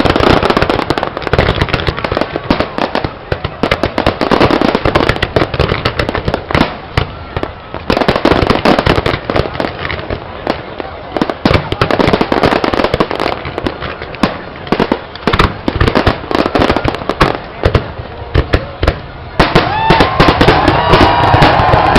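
Fireworks display: a dense, continuous run of crackling bursts and bangs. About three seconds before the end it grows louder, with whistling tones mixed into the bangs.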